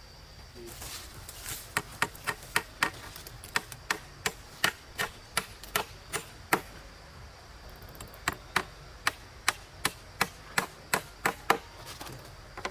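Repeated sharp blows of a hand tool striking wood, about three a second, in two runs with a short pause in the middle.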